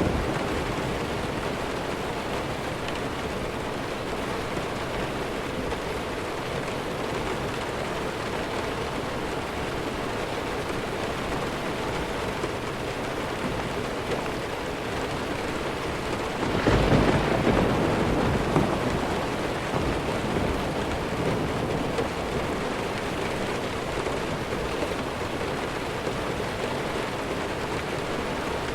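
Steady heavy rain, with a rumble of thunder swelling up a little over halfway through and fading over two or three seconds.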